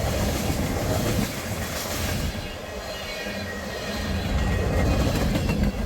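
Freight train of tank cars rolling past close by, a steady rumble of wheels clattering over the rails with a faint wheel squeal.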